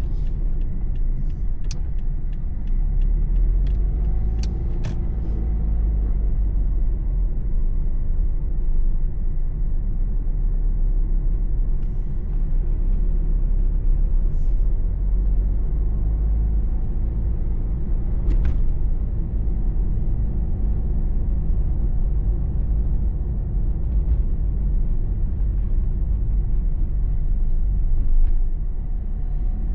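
Car driving, heard from inside the cabin: a steady low rumble of engine and tyre road noise, with the engine note rising and falling a few times as it changes speed.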